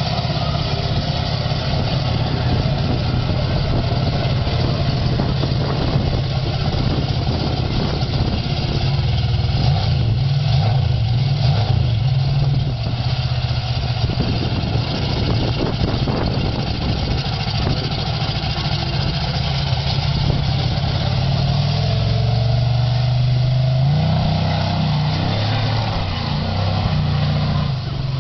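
Monster truck engine running, its low note revving up and down, with a stronger rise and fall in revs about three-quarters of the way through.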